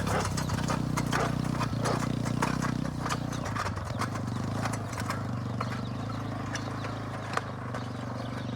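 ATV engine running at steady low revs, with irregular clicking and clattering over it.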